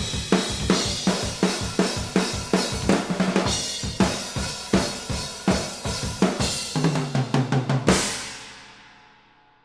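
Acoustic drum kit playing a steady rock beat of kick, snare and cymbals, heard unprocessed through a combination of room microphones. Near the end comes a fast fill of rapid hits, then a final crash that rings out and fades.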